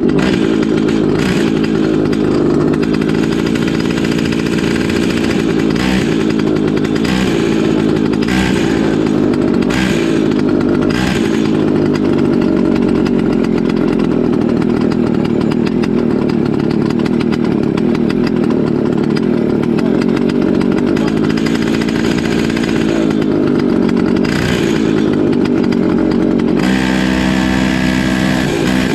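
Comer C50 50cc two-stroke kart engine running hard, its pitch rising and falling; near the end it settles to a steadier, lower note.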